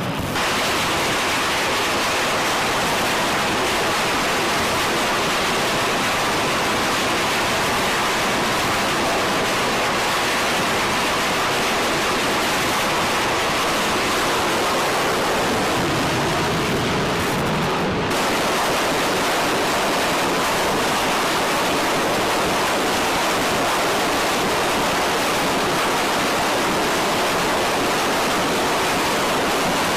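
A loud, steady rushing noise with no clear pitch, broken briefly about eighteen seconds in and then continuing unchanged.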